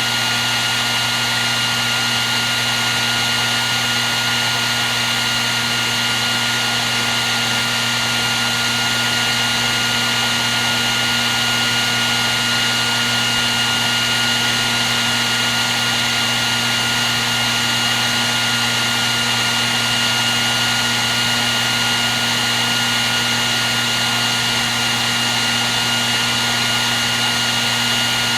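Electric hair dryer running continuously at a steady setting: a constant rush of blown air with a fixed high motor whine and a low hum.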